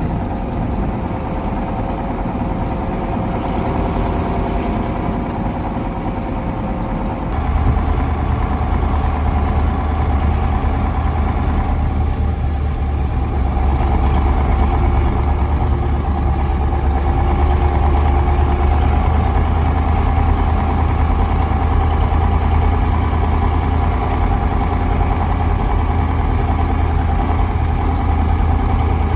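KAMAZ 4310 6x6 truck's V8 diesel engine running steadily as the truck is driven. About a quarter of the way in, the sound suddenly becomes louder, with a heavier low rumble.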